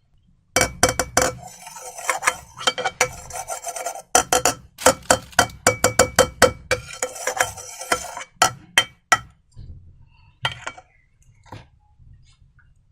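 Slime being worked, giving quick runs of sharp, crackly clicks for about eight seconds, then a few scattered clicks near the end.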